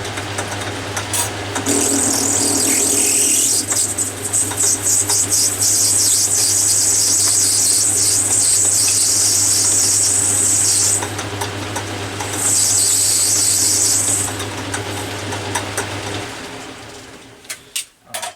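Metal lathe running with a steady motor hum while a parting tool cuts into brass bar stock, giving a high-pitched hiss of the cut that lasts about nine seconds, pauses, then returns briefly. Near the end the motor is switched off and the hum runs down.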